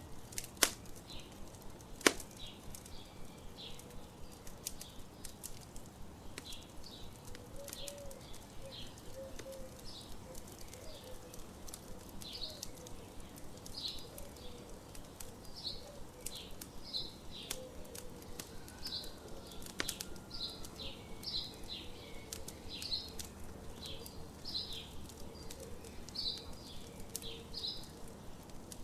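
Campfire crackling, with two sharp pops in the first couple of seconds, under birds chirping over and over.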